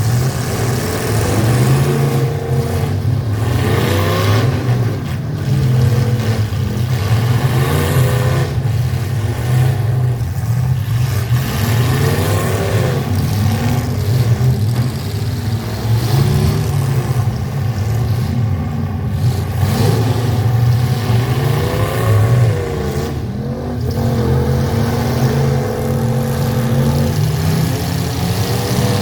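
Full-size pickup truck engines in a demolition derby running hard and revving over and over, the pitch rising and falling again and again over a steady low drone.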